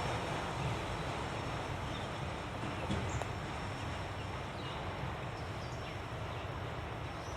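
Rumble of a train slowly fading as it moves away, with a few faint bird chirps over it.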